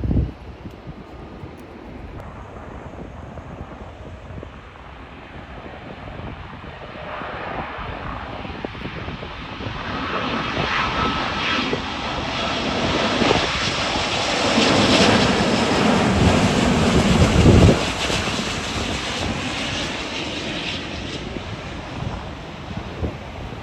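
Jet airliner flying past, its engine roar building from about a third of the way in, loudest a little past the middle, then fading.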